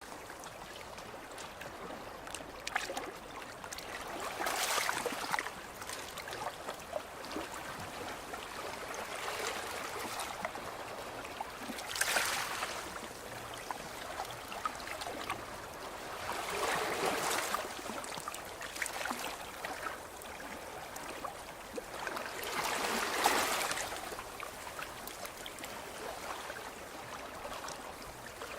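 Small waves breaking and washing over a pebble beach, swelling every few seconds, with the fine clicking of pebbles knocking together in the wash.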